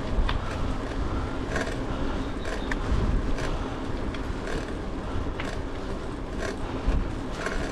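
Bicycle riding along a rough trail: wind rumbling on the microphone over steady tyre noise, with scattered short rattles and knocks from the bike.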